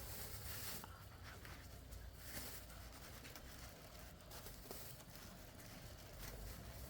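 Faint, uneven rustling as ears of baby corn in their husks are picked over and handled.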